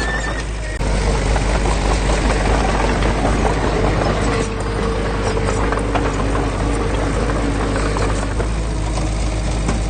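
Diesel engine of heavy earthmoving machinery running steadily under load, with a deep rumble; the sound steps up in level a little under a second in.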